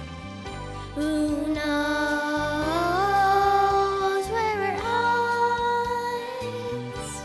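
A slow song: a sung melody of long held notes that slide from pitch to pitch, over a steady accompaniment.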